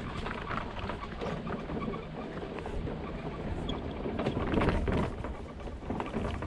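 Wheels rolling and jolting over a rough trail of sand and tree roots, a continuous crunching rattle with many small knocks.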